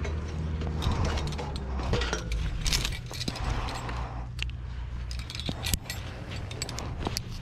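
Metal climbing hardware clicking and rattling in quick irregular taps, over a low steady hum that weakens about halfway through.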